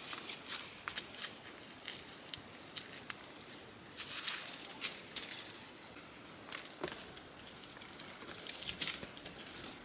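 A steady, high-pitched insect drone with scattered light clicks and rustles over it.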